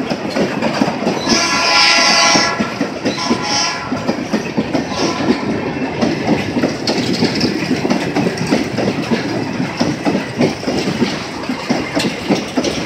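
Freight train of steel stone-hopper wagons rolling past close by, wheels clattering over the rails without pause. About a second in, a train horn sounds for about a second, then once more briefly.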